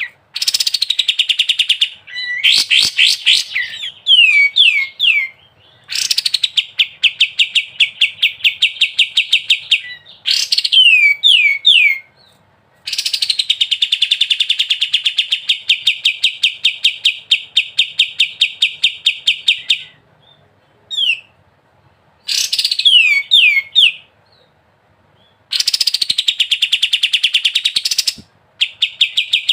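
Kapas tembak songbird singing a loud, fast-rattling 'ngebren' song. It comes in bursts: long, even trills of rapid repeated notes, the longest lasting about seven seconds, broken by short series of quick down-slurred whistles and brief pauses.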